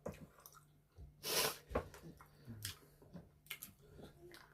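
Close-miked eating sounds: chewing with small wet clicks and smacks, and one louder breathy rush about a second in, over a faint steady hum.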